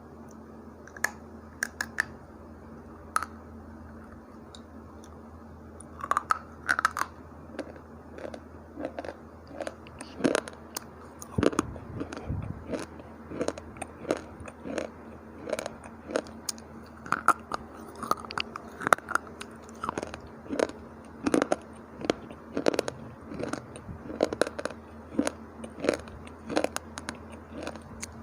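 Dry clay bar chips being bitten and crunched. There are a few separate sharp bites in the first seconds, then steady crunching from about six seconds in, roughly one or two crunches a second.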